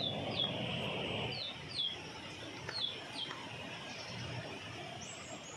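Birds calling: about six short, high chirps, each sliding down in pitch, in the first three seconds or so, over a steady outdoor background hiss.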